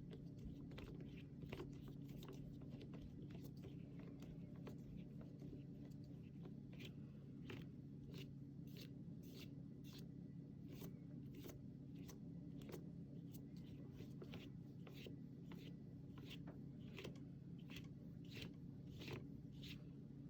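Faint, repeated short scratchy strokes of a flat brush laying acrylic paint on a canvas, a few each second, over a steady low hum.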